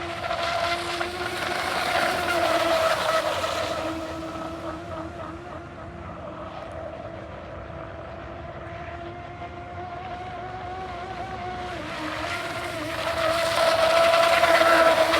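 Aquacraft Motley Crew RC boat running on the water, its 4255 brushless electric motor giving a steady whine over the hiss of the hull. The sound swells louder a couple of seconds in, fades, and swells again near the end as the boat passes closer.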